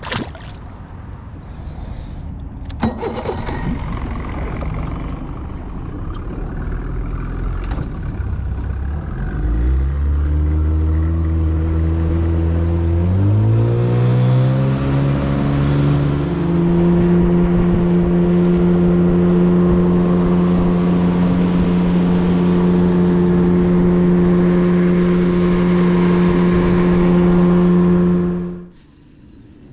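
Boat's outboard motor throttling up, its pitch rising in steps over several seconds, then running steady at cruising speed before cutting off suddenly near the end.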